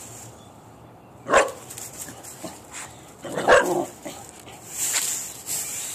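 A dog barks twice, about two seconds apart, with a short hiss near the end.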